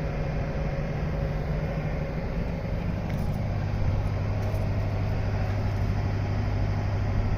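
Construction-site generator engine running with a steady low drone; its pitch drops about three seconds in.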